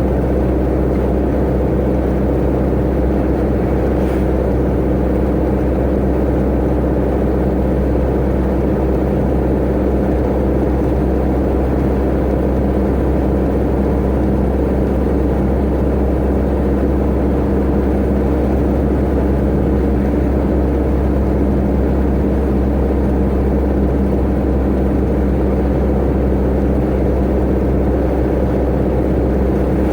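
Tata Ace mini truck's turbo engine running steadily at an even speed, a constant drone with road noise and no change in pitch.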